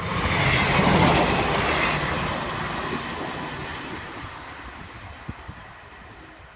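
Class 158 diesel multiple unit passing over the level crossing: loudest about a second in, then fading steadily as it runs away, with a few sharp clicks of the wheels near the end.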